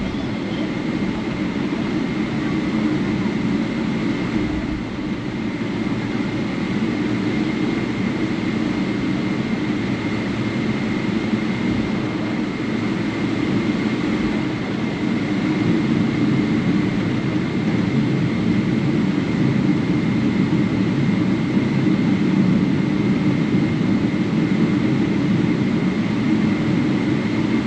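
Steady airliner cabin rumble inside a Boeing 777-300 on the ground just after landing, with a thin, steady whine above it. It grows slightly louder about halfway through.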